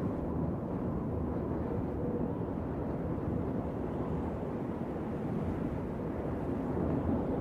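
Wind blowing through trees: a steady, low rushing noise with little hiss and no distinct gusts.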